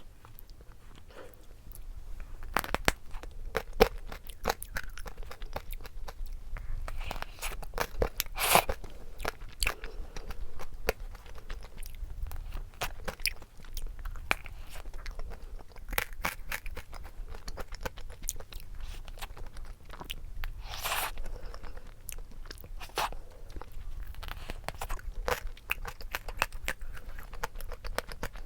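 Close-miked eating sounds: biting into and chewing a cream doughnut, with many small mouth clicks and soft crunches, and two louder bites, one about eight seconds in and one about twenty-one seconds in.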